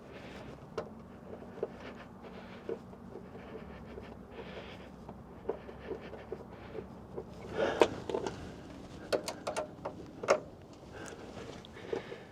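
Light clicks and knocks of hand work on parts, with a burst of clatter about eight seconds in and a few sharp clicks after it, over a steady low hum.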